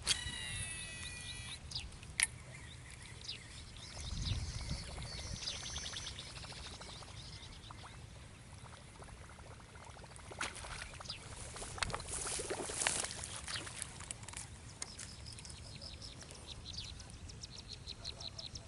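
Birds chirping and calling over an outdoor background, with scattered clicks and a short noisy rush about two thirds of the way through.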